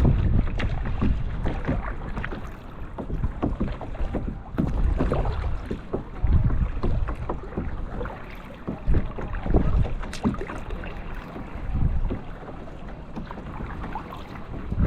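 Kayak paddle strokes: water splashing and dripping off the paddle blades at an uneven pace, with wind rumbling on the microphone.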